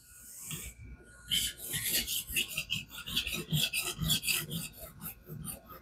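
Knife edge being stroked across a wet King water stone held in a guided fixed-angle sharpener: a quick, even run of gritty scraping strokes that starts about a second in.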